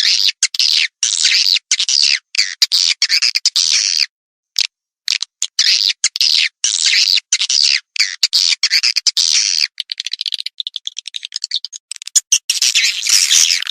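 Recorded swiftlet (walet) calls used as a lure to draw swiftlets into a swiftlet house. They form a dense, high-pitched, fast twittering chatter broken by many brief gaps, with a silence of about a second around four seconds in.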